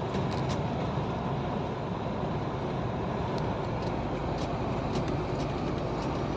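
Steady noise inside a moving truck's cab: engine and tyres on the road, with a few faint ticks.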